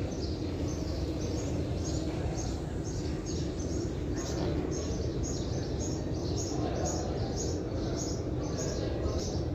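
A small bird chirping over and over, about two or three short high chirps a second, above a steady low rumble and murmur of a large hall.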